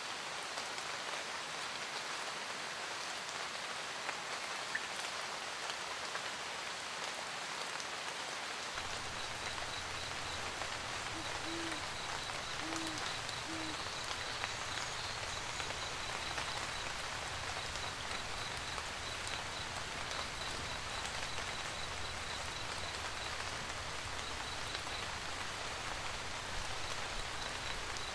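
Steady rain falling, with an owl hooting three short times about twelve seconds in. A low steady rumble comes in about nine seconds in, and a faint, fast, high chirping runs through the second half.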